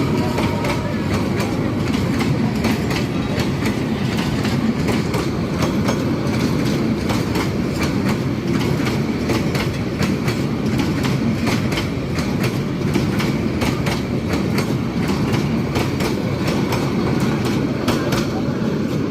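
Passenger train of PT-Inka coaches rolling past at speed, its wheels clattering steadily over the rail joints with a dense rumble and rapid irregular clicks.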